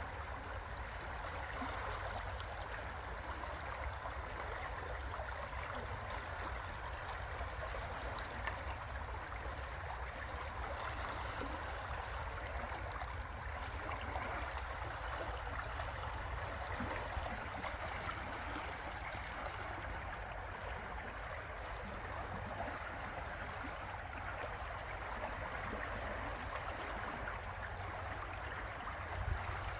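River water flowing steadily, an even rush of water with a low rumble underneath.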